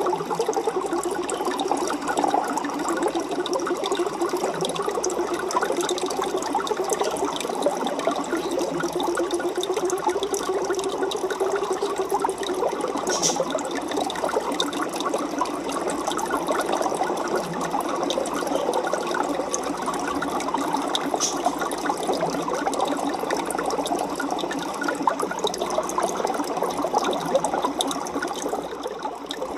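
Aquarium water bubbling and splashing steadily, a dense crackly churn without pauses. Two faint clicks sound partway through.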